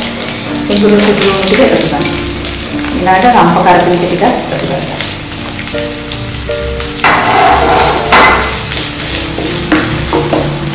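Aromatics (cinnamon, lemongrass, curry and pandan leaves, garlic and ginger) sizzling in hot coconut oil in a frying pan, with a wooden spatula stirring them near the end. Background music plays throughout.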